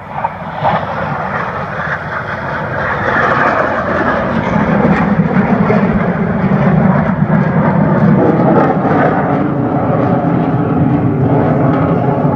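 Aircraft engine noise from a plane flying past, building over the first few seconds and then holding loud.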